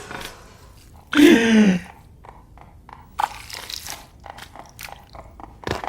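Crunching and chewing of crisp food, a run of short irregular crunches, with a short falling voice-like sound about a second in.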